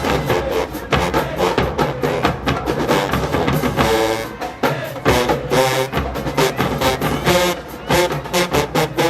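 HBCU show-style marching band playing: a drumline beats out a fast percussion groove with snare and bass drums, and the brass section hits short loud chords a few times over it.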